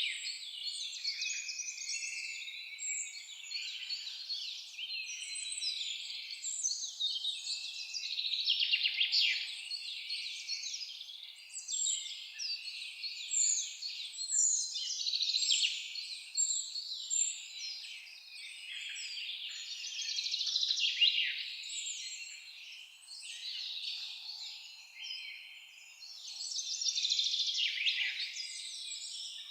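Several songbirds singing and chirping over one another, a continuous tangle of high, quick calls and trills that swells and fades in loudness.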